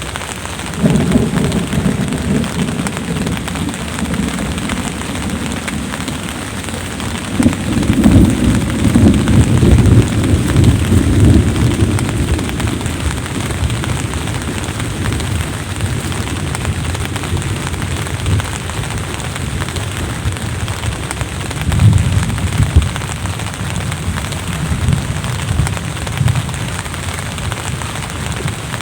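Steady rain, with rolls of thunder: one about a second in, a longer, louder roll from about a quarter of the way through, and another shorter one past the middle.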